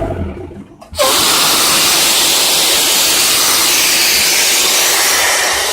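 The engine hum cuts out, and about a second in a loud, steady hiss starts suddenly and keeps going.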